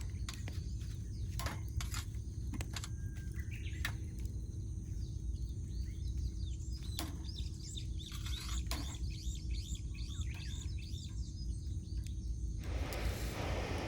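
Wood campfire crackling with sharp, scattered pops while small birds chirp, over a steady low rumble. A broad rushing hiss comes in near the end.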